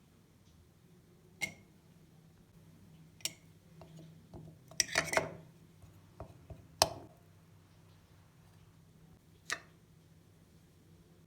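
Dishes and utensils clinking and knocking in a kitchen: single clinks, some ringing briefly, with a short flurry of them about five seconds in, over a low steady hum.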